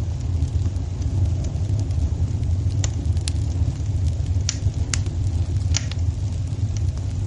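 Fire burning in a fireplace: a steady low rumble of the flames with scattered sharp crackles and pops, the clearest a few seconds in.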